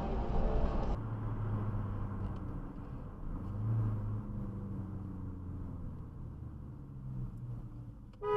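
Car engine and road noise heard from inside a car on a dashcam recording: a steady low hum whose pitch swells and eases slightly. About a second in, the sound changes abruptly, as at a cut between clips. A short car horn starts just at the very end.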